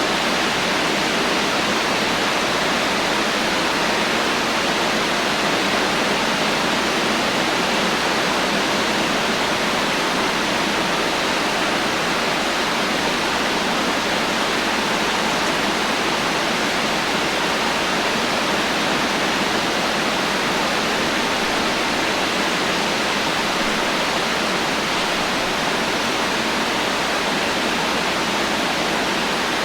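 Steady heavy rain, an even hiss with no thunder and no distinct drops.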